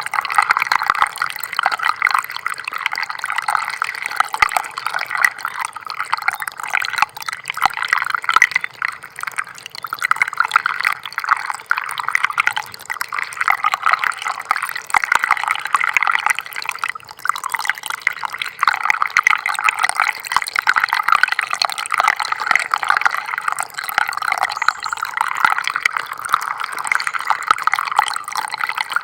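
Small stream of water trickling and splashing, a steady dense patter and bubbling that swells and eases a little without stopping.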